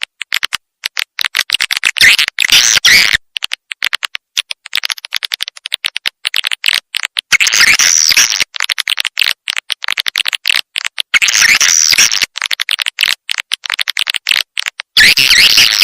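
Recorded swiftlet calls played as a lure: rapid, choppy chirping and clicking twitters, swelling into louder bouts of about a second, four times.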